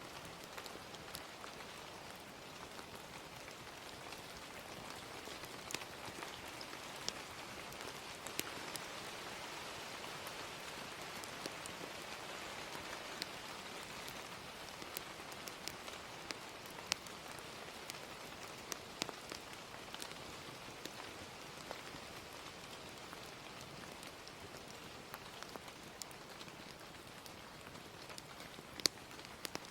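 Gentle rain falling steadily, with scattered sharp crackles and pops of a wood fire.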